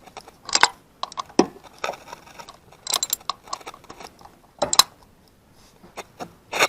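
Metal hand tools clinking and clacking irregularly, sockets and extensions handled at the spark plug wells of a Honda Odyssey V6, with a few sharper knocks.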